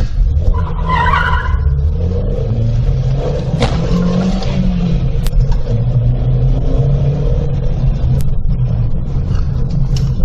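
Car engine running with steady road rumble as the car drives, its pitch shifting with speed. A brief higher tone comes about a second in, and a few sharp clicks are scattered through it.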